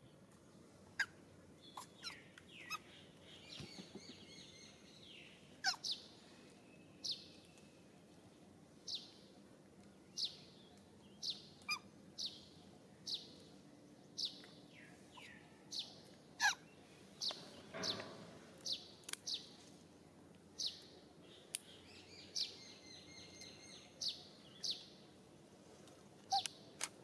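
A bird calling over and over in short, sharp, high-pitched chirps that fall in pitch, roughly one a second, with a brief fluttering trill a few seconds in and again near the end.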